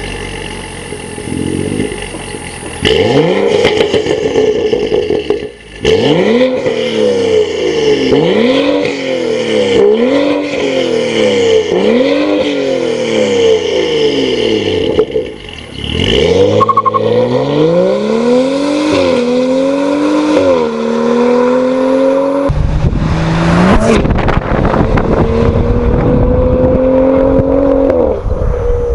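BMW M235i's turbocharged inline-six through an Armytrix valved exhaust, revved in a string of blips rising and falling about once a second. It then climbs in pitch in several longer pulls that each drop back sharply, and ends in a long, slow, steady rise over a deep low rumble.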